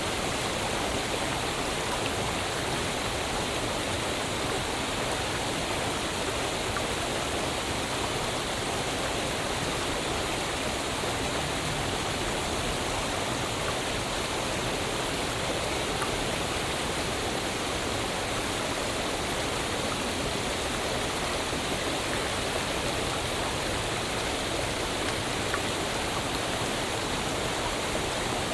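Waterfall: a steady, even rush of falling water that holds unchanged throughout.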